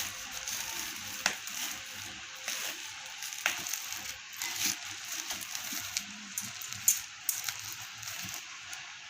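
Packaging rustling and crackling as it is handled, with a few sharp clicks.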